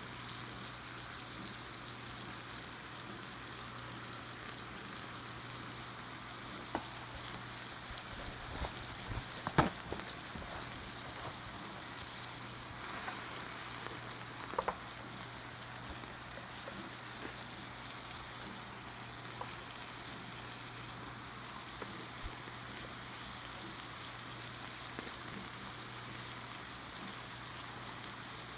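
Soy-marinated bulgogi beef sizzling steadily in a frying pan, with a few scattered sharp clicks, the loudest about ten seconds in.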